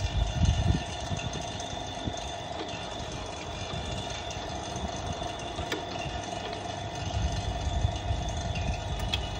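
Refrigeration vacuum pump running steadily, evacuating a fridge's sealed refrigerant system after a compressor change. Low rumbles come near the start and again about seven seconds in.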